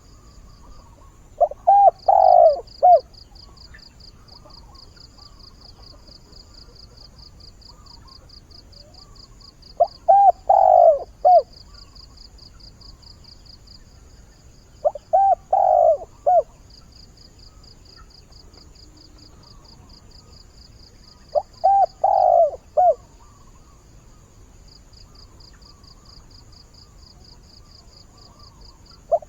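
Decoy spotted dove cooing: four phrases of three or four low notes each, spaced several seconds apart, calling to draw in wild doves. A fast, high pulsing chirr runs on and off behind it.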